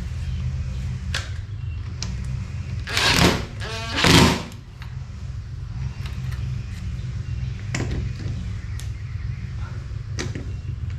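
Work on a door's lockset: scattered clicks and two short, loud scraping noises about three and four seconds in, over a steady low hum.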